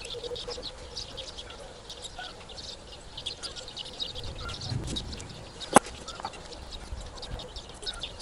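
Small birds chirping repeatedly, with one sharp click nearly six seconds in.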